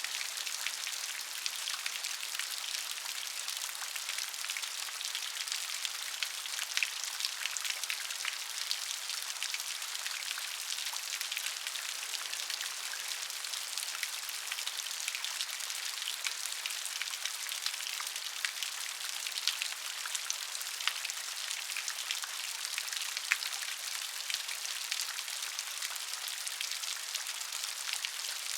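Steady rain falling on a surface: an even hiss with many small drop taps.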